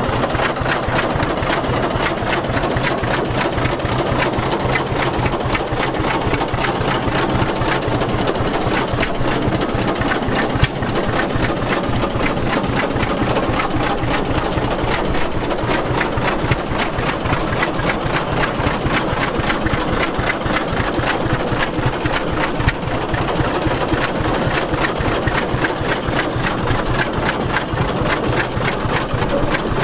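Antique stationary gas engine running steadily, firing with a fast, even beat that holds unchanged throughout.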